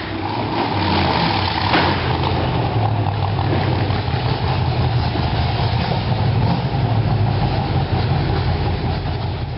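A car engine idling steadily, a loud, even low hum.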